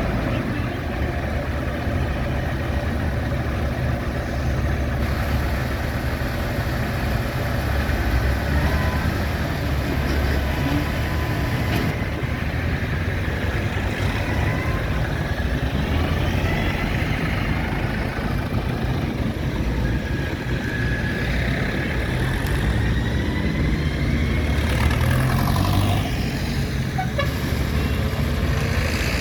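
Tractor and lorry engines running with a steady low rumble. Engines rev up and down a few times in the middle and latter part.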